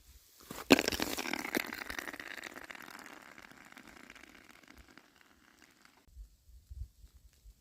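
Glaze ice from freezing rain breaking with a sharp crack, then a second one, followed by a shower of ice shards crackling and tinkling. The shards fade over about five seconds and cut off suddenly.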